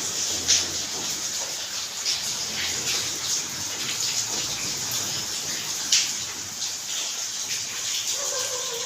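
Rain falling steadily, a constant hiss with many sharp drips and splashes, two of them louder, about half a second and six seconds in.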